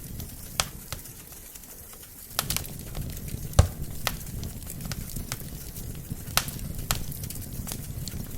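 Wood fire burning in a fireplace: logs crackling with scattered sharp pops over a low steady rumble of the flames. The fire quietens briefly about a second in, then one loud pop comes about halfway through.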